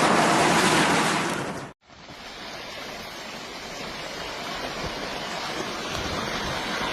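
A loud, steady rushing roar like churning water cuts off abruptly about two seconds in; after a brief silence a second rushing roar starts quietly and grows steadily louder.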